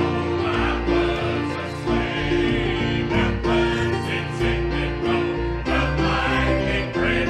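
Gospel music: a church choir singing with instrumental accompaniment.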